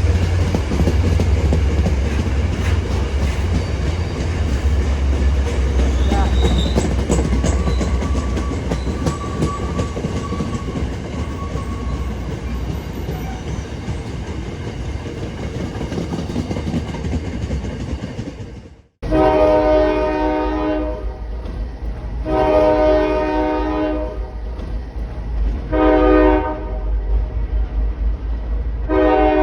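A train running past with a low rumble and wheel-on-rail clatter. After a sudden break about two-thirds of the way in, a locomotive's chime horn sounds long, long, short, long: the standard grade-crossing signal.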